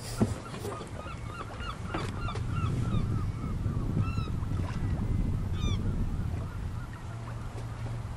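A bird calling in a quick run of short, evenly spaced notes, about three a second, followed by a few higher, falling calls, over a steady low hum.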